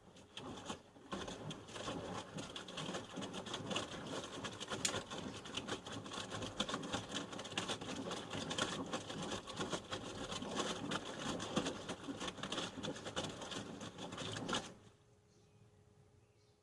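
Panasonic NA-147VB2 front-loading washing machine turning its drum in the wash: laundry tumbling with a dense rattling clatter for about fourteen seconds, then the drum stops suddenly and leaves a faint hum.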